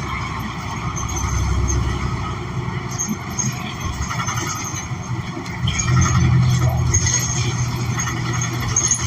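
Inside a New Flyer XN40 city bus under way: its Cummins Westport ISL G natural-gas engine running under the road and rattle noise of the cabin. The engine's low hum drops back at the start and builds again about six seconds in as the bus pulls harder.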